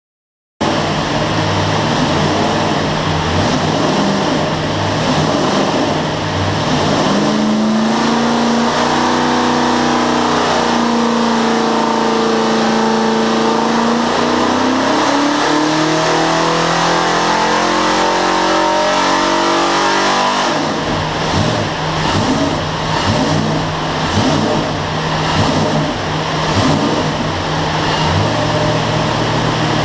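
Ford 351 V8 running under load on an engine dyno: steady at first, then the revs climb in a long pull that cuts off abruptly about 20 seconds in, after which it runs lower and unevenly.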